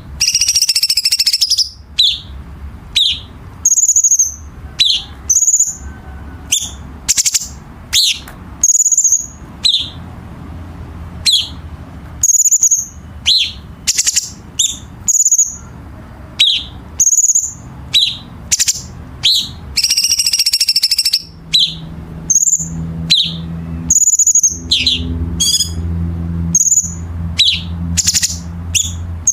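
Cucak cungkok songbird singing a rapid run of sharp, piercing whistled notes, the "tembakan" shots. These are broken by harsh rasping phrases, the "kasaran", near the start and again partway through. A low steady hum runs underneath and grows louder in the second half.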